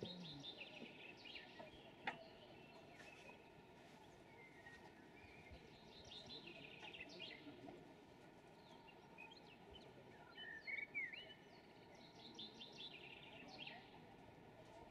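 Faint songbirds singing in several bursts of quick, high chirps and trills, with one sharp click about two seconds in.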